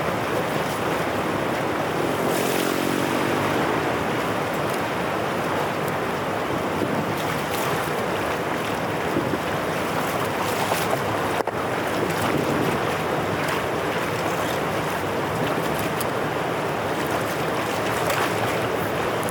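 Steady rush of floodwater pouring through a drainage channel.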